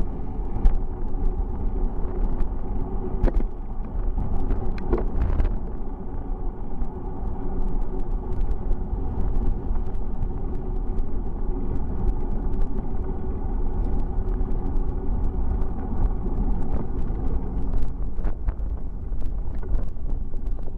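Steady rumble of a bicycle ride: wind and tyre-on-road noise, with scattered clicks and knocks throughout.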